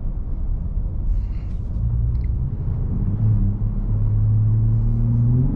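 2021 Ford F-150 Raptor's twin-turbo V6 engine and active exhaust in Sport mode while driving: a low rumble. About two seconds in, a steady engine note comes up, and near the end its pitch starts to rise as the truck accelerates.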